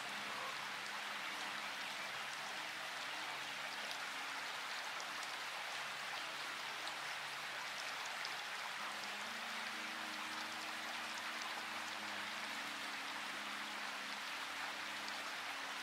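Steady rain: a continuous hiss with scattered drop ticks, over soft background music of long held low notes that shift every few seconds.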